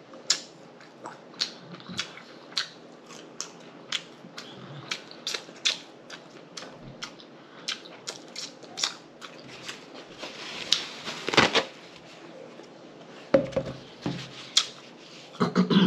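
Close-miked chewing of a sauce-dipped fried pork chop: wet mouth clicks and lip smacks, irregular, several a second, with one longer, louder burst of crunching about eleven seconds in.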